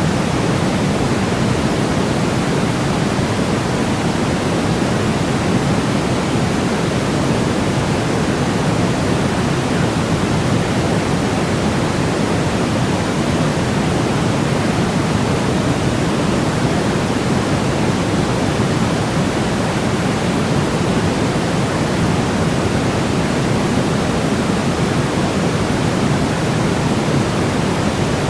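Steady, unchanging electronic white noise of the kind played to help babies sleep, heavier in the low end than pure white noise, so it sounds deep and soft like pink noise.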